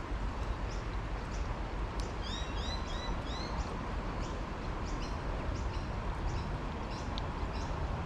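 Small birds calling: short high chirps repeated every half second or so, with a quick run of four arched whistled notes about two to three seconds in, over a steady low background rumble.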